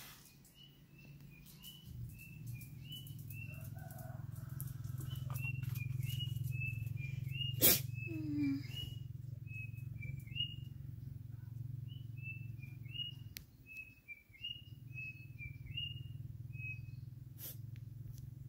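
A bird chirping over and over in short, high, rising notes, about two a second, with a brief pause partway through, over a steady low hum. A single sharp, loud burst comes a little under eight seconds in.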